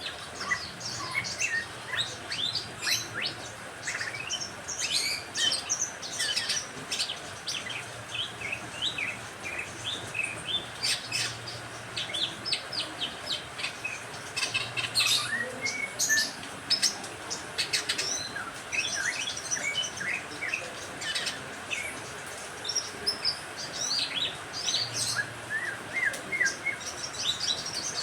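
Mixed chorus of caged songbirds (canaries, lovebirds and a greater green leafbird) chirping continuously, with many quick, high, overlapping calls and falling sweeps over a steady hiss.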